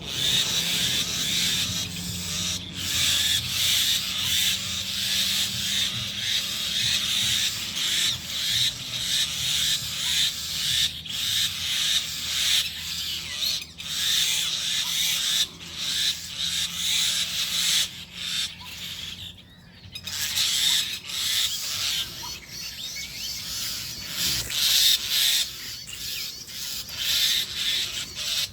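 Birds calling harshly and without pause, typical of alarm calls from birds mobbing a snake.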